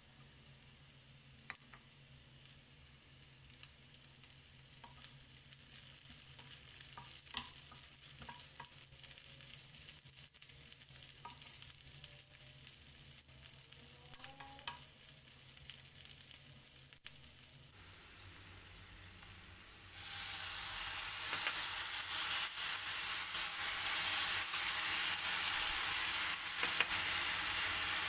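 Sliced chillies, shallots and garlic frying in oil in a nonstick pan, a soft sizzle with scattered light clicks of a spatula stirring. About two-thirds of the way in the sizzle turns much louder and stays loud.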